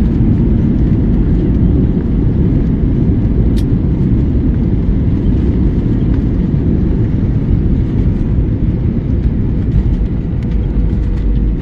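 Jet airliner cabin noise on the approach to land: a loud, even rumble of engines and rushing air, heaviest in the low end, with a faint steady hum.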